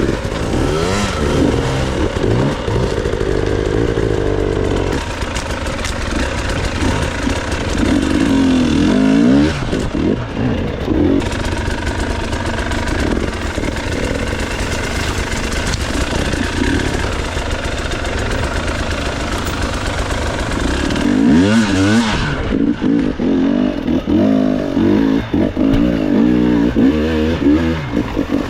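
Off-road enduro motorcycle engine revving hard, its pitch rising and falling again and again as the throttle is worked, with the sharpest swings about a third of the way in and again near the end.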